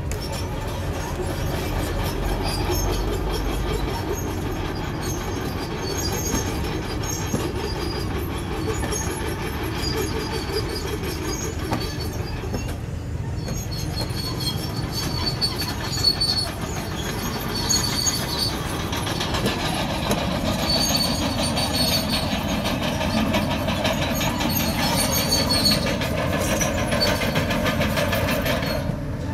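Komatsu crawler bulldozer working, its engine running under load with the steel tracks clanking and squealing throughout. The high squeals come and go, most often in the second half.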